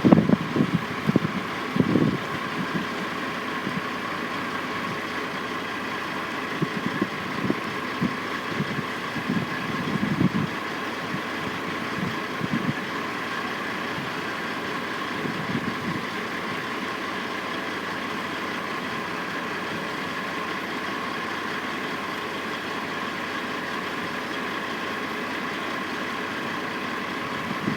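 Construction-site heavy machinery running steadily, diesel engines of cranes and trucks idling with a constant hum. Brief louder sounds come and go during the first half.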